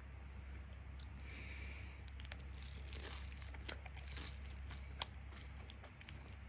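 Close-up eating sounds of crispy karaage (Japanese fried chicken): a brief crinkling rustle about a second in, then a run of sharp crunches and clicks as the fried coating is bitten and chewed.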